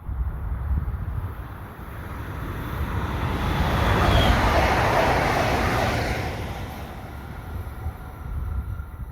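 A train passing by on the line, its running noise swelling to a peak about four to five seconds in and then fading away. Wind buffets the microphone throughout.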